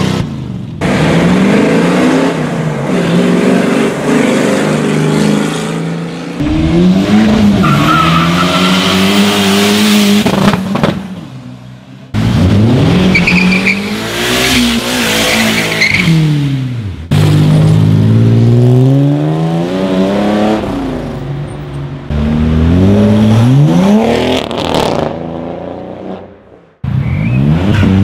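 Car engines accelerating and revving one after another, their pitch rising and falling, each sound breaking off abruptly and the next starting. Among them are a V8 Ford Maverick at the very start and a VW Gol in the middle.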